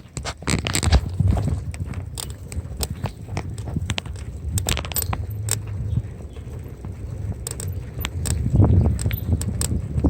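Bicycle ride with wind rumbling on the microphone and frequent sharp clicks and rattles from the bike as it rolls over the road surface.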